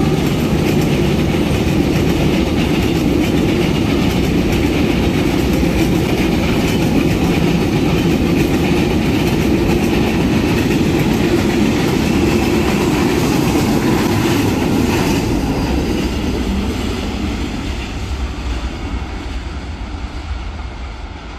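A long train's wagons and coaches passing close by, wheels rolling loudly on the rails as a dense, steady rumble. The noise fades away over the last few seconds as the end of the train moves off.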